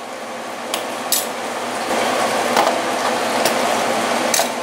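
Canned corned beef hash sizzling in a cast-iron skillet over medium heat, a steady hiss that grows a little louder about two seconds in. A few light clicks and clinks are heard over it.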